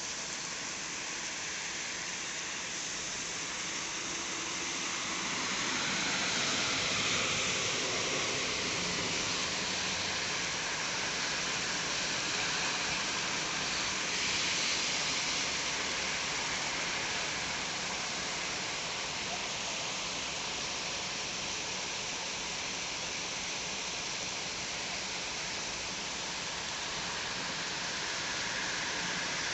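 Steady heavy rain, a dense even hiss that swells a little about six seconds in.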